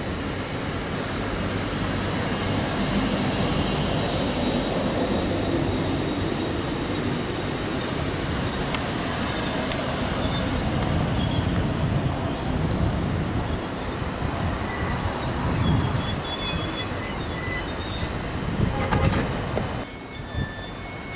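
InterCity 125 Mark 3 coaches rolling past at close range, with a steady rumble from the wheels on the rails. A high wheel squeal sets in about four seconds in and fades near the end. The sound cuts off abruptly shortly before the end.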